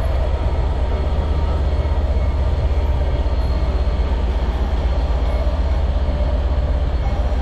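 Class 67 diesel locomotive's engine running steadily, a deep even drone.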